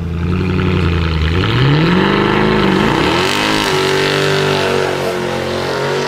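Mercedes car's loud exhaust as the engine accelerates, its pitch holding steady, then climbing in two rises about two and three and a half seconds in, then holding high.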